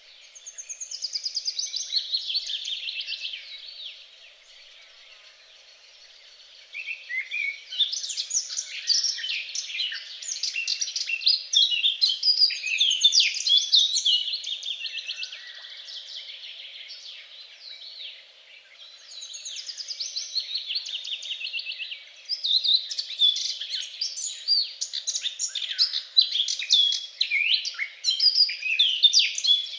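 Several songbirds singing at once in rapid trills and chirps, thinning out twice to a quieter lull before building again.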